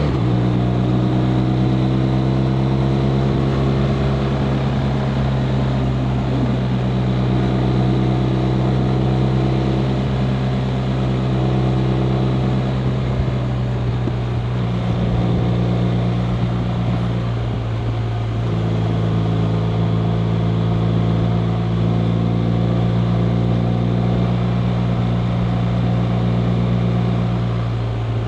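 BMW R 1250 RT's 1254 cc boxer twin engine running steadily while riding, under a constant rush of wind. Its pitch shifts a little a few times, with a brief dip about two-thirds of the way through.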